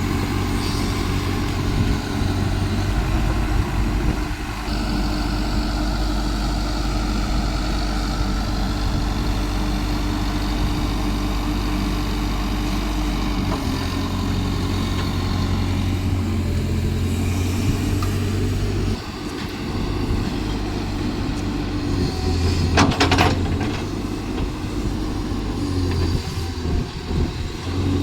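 Caterpillar excavator's diesel engine running steadily, its note shifting a few times as it works. There is one sharp clank late on.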